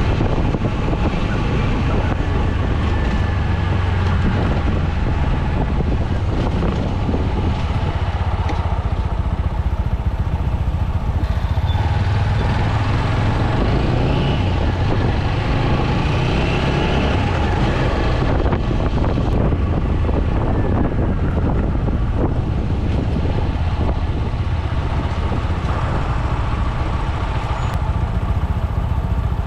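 TVS Apache 200 motorcycle's single-cylinder engine running steadily while under way.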